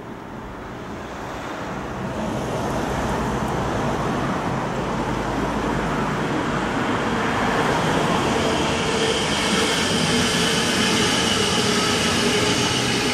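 S-Bahn electric multiple-unit train approaching and passing close by on overhead-wire track, its rolling noise growing steadily louder, with a steady high whine joining in during the second half.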